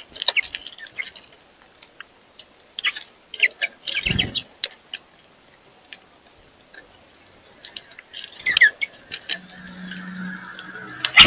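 Birds chirping in short, scattered calls, with light clicks and a dull thump about four seconds in.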